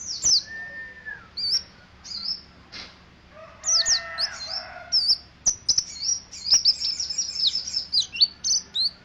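Pleci (white-eye) singing in short, high, falling chirps, scattered at first. About five and a half seconds in it breaks into a fast unbroken twittering run, the rapid 'ngeriwik' chatter.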